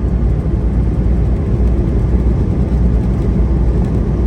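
Steady low rumble of a semi-truck under way, heard from inside the cab: engine and road noise.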